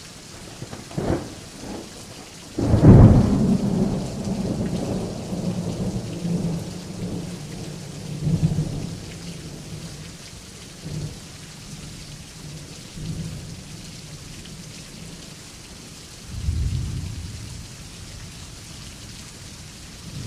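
Thunderstorm: steady rain hiss with a sudden loud thunderclap about three seconds in that rolls on as rumbling for several seconds. A couple of sharper cracks come just before it, and a second swell of low thunder follows near the end.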